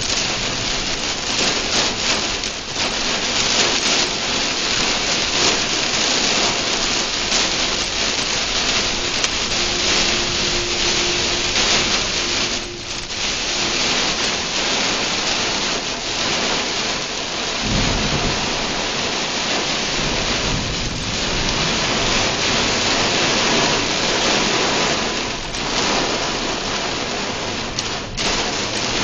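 Very heavy rain pelting a car's roof and windshield, heard from inside the cabin as a loud, steady roar.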